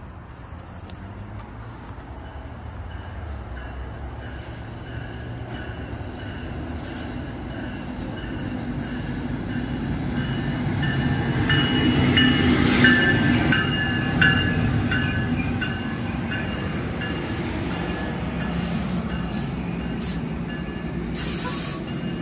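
NJ Transit passenger train led by an ALP-46 electric locomotive running close past, its rumble building to a peak about halfway through with a high squeal of wheels on the rails. The passenger cars then roll by with a steady rumble and some sharp clicks.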